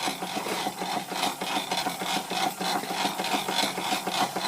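Model steam mill engine running steadily and driving a toy fairground through a right-angled gear, which makes a rapid, even mechanical clatter. The right-angled gear is the noisy part of the drive, run as quiet as it can be got.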